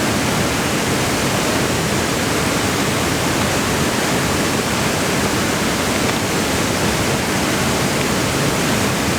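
Steady, loud roar of a river waterfall: rushing water heard as an even, unbroken hiss.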